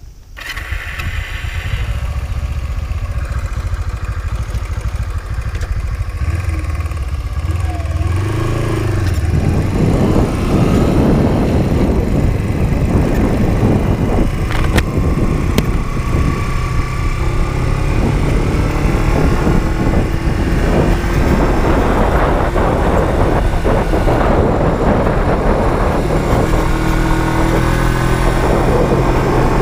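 Honda CB125T's 125 cc parallel-twin engine running as the bike moves off, then riding and accelerating through the gears, the engine note rising and falling with wind and road noise growing louder from about nine seconds in.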